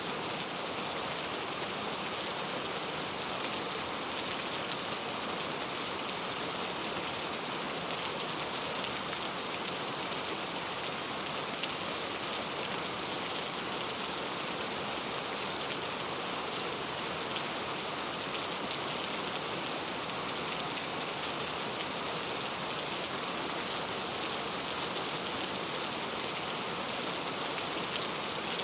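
Steady rain falling: an even hiss with many small drop impacts.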